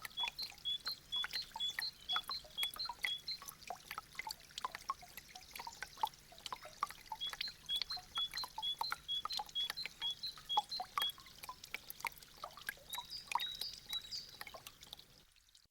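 Meltwater dripping from icicles: a dense, irregular patter of drops. A high two-note chirp repeats rapidly in two runs of a few seconds. The sound cuts off suddenly near the end.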